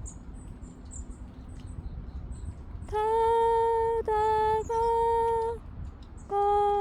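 A woman singing slowly in long held notes, starting about three seconds in and breaking twice before one more held note near the end. Before the singing there is only low background noise with a few faint high chirps.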